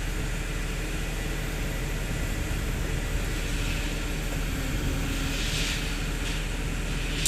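Hydraulic excavator's diesel engine running steadily, with a few short noisy bursts higher up about five seconds in and again near the end.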